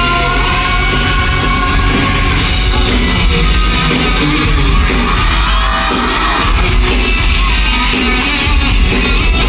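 Live rock music played loud by a band with a singer, amplified through a concert PA; long held notes ring out in the first two seconds.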